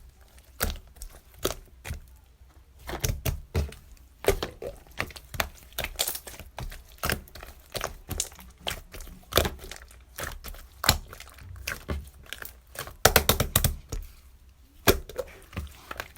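Irregular sharp taps and knocks, some single and some in quick clusters, with the busiest run about 13 seconds in.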